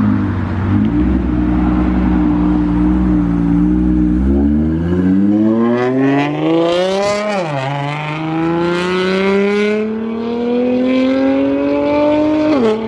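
Underground Racing twin-turbo Lamborghini Aventador V12 accelerating hard. The engine holds a steady note for a few seconds, then climbs in pitch, drops at a gear change about seven seconds in, and climbs again to a second shift near the end.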